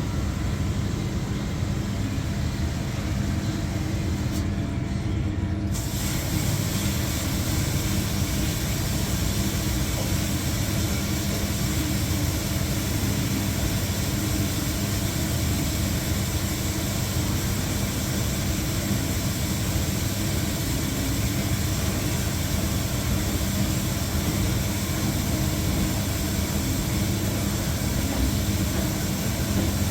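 Washing machine running at the start of a rinse: a steady low hum, joined suddenly about six seconds in by a steady hiss, the sound of water filling the machine for the rinse.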